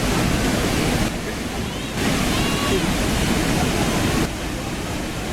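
Waterfall rushing steadily, a dense roar of falling water, with two short dips in level about a second in and again near the end.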